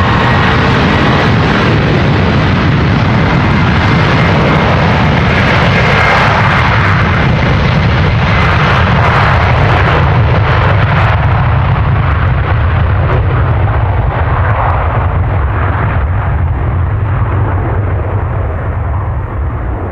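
Airbus Beluga cargo jet's twin turbofan engines at takeoff power, passing close by. It is a loud, dense rumble with a thin high whine in the first seconds. From about two-thirds of the way through, the high end fades and the sound draws away as the aircraft recedes.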